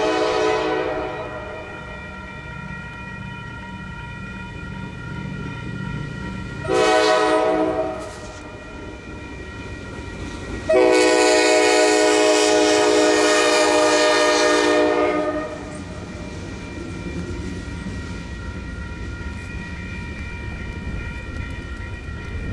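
Diesel locomotive's multi-chime air horn. A blast tails off about a second in, then a short blast comes around seven seconds and a long blast of about five seconds follows, the closing short-long of a grade-crossing signal. A low rumble of the locomotive and train runs underneath.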